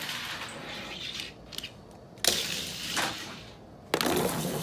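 Plastic LEGO cars crashing together and clattering across a hard surface. There are two sharp impacts, about two seconds in and near the end, each followed by a second or so of rattling plastic.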